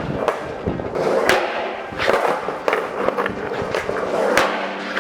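Skateboard rolling on concrete, its wheels making a steady rumble, with several sharp clacks of the board hitting the ground at uneven intervals.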